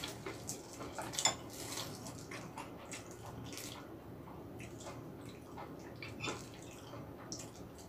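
Close-up wet chewing and mouth smacking of a person eating, a scatter of small irregular clicks and squelches.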